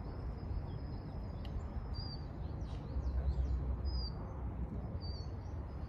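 Small birds chirping, a few short high chirps spread through, over a low rumble of wind on the microphone that swells around the middle.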